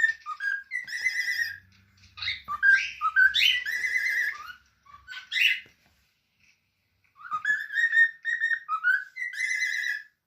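Pet cockatiel whistling a string of short warbling phrases that slide up and down, pausing for about a second midway before whistling on.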